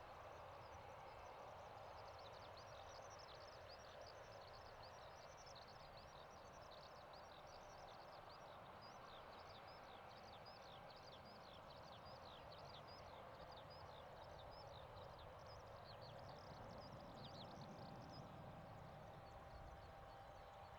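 Faint chirping of small birds: many quick, high notes that fall in pitch, thinning out near the end, over a steady low hiss of distant background noise.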